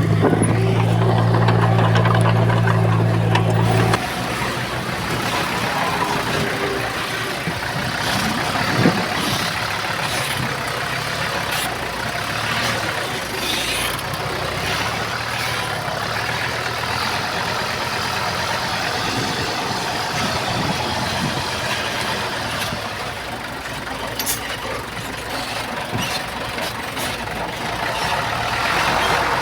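Diesel engine of heavy earthmoving machinery running: a steady drone for about four seconds, then an abrupt change to a rougher, noisier engine sound with a few sharp knocks.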